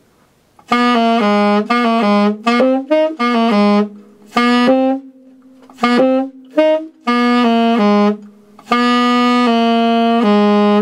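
Tenor saxophone playing a repetitive, funky bass-line phrase in its low register. It begins with a string of short, detached notes and ends on two long held notes.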